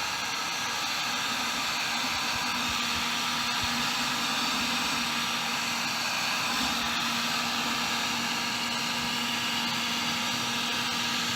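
Electric heat gun running steadily, its fan blowing hot air with a faint low hum, heating a PVC pipe joint to soften the glue and the plastic.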